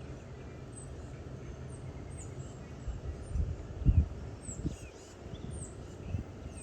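Low, steady rumble of a distant Falcon 9 rocket launch, with small birds giving short high chirps that drop in pitch every second or so. A couple of dull low thuds come about four seconds in.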